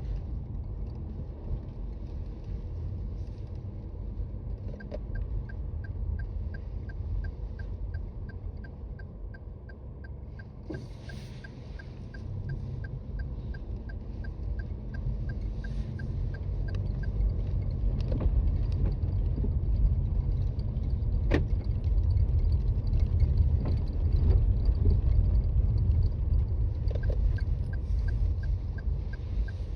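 Toyota Raize Z 4WD driving on snowy roads, heard from inside the cabin: a steady low road and tyre rumble that grows louder in the second half. A regular light ticking runs for several seconds from about five seconds in and starts again near the end.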